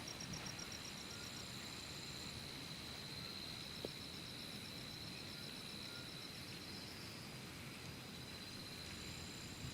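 Insects calling: one steady high-pitched trill held throughout, with runs of quick chirping pulses, about eight a second, from another insect starting and stopping over it, above a faint even hiss. A single small click about four seconds in.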